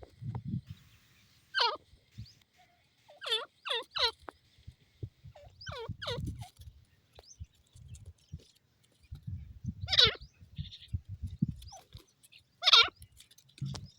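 Grey francolin calling: short, steeply falling notes, given singly or in quick runs of two or three, spaced a few seconds apart. Faint low thuds and rumbles come between the calls.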